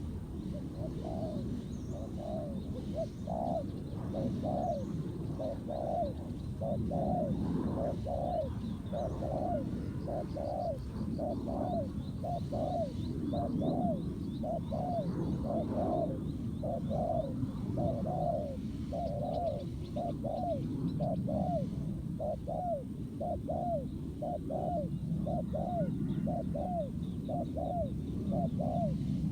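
Spotted doves cooing: a long, steady run of short, repeated coos, about one and a half a second, the gù cooing of a wild dove answering a decoy at a trap. Faint high chirps from a small bird join for a few seconds midway.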